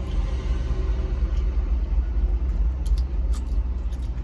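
Steady low rumble of an idling semi-truck engine heard from inside the cab, with a few light clicks.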